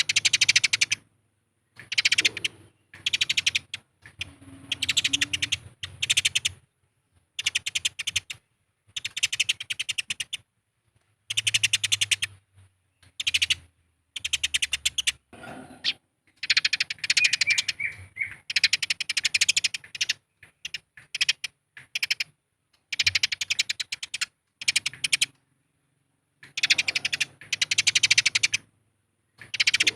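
Eurasian tree sparrows chattering in fighting calls: bursts of a second or two of very fast, harsh chirps, repeated again and again with short pauses between them.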